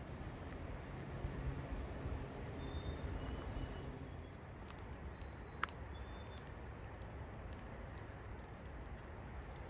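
A flock of sparrows singing and calling: short, thin high notes scattered throughout, over a steady low rumble of wind on the microphone. A single sharp tick sounds about halfway.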